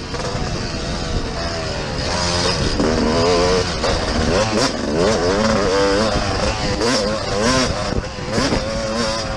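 Several motocross dirt bike engines revving up and down as they ride the track, their pitches rising and falling and overlapping.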